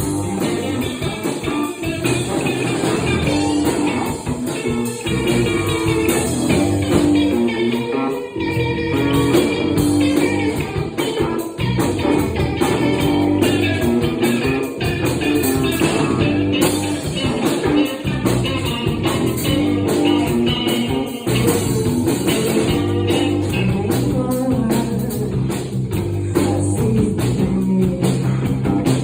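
Rock band playing live, with guitar to the fore, in a blues-rock style.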